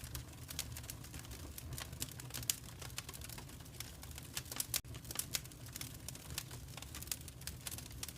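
Wood fire in a fireplace crackling: dense, irregular pops and snaps over a steady low rumble of the burning fire.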